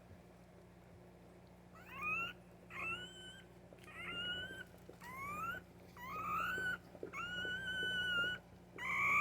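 Newborn Lab-Akita x Great Pyrenees puppy crying in a string of high squeals, about one a second from two seconds in, each rising in pitch, the later ones longer and held.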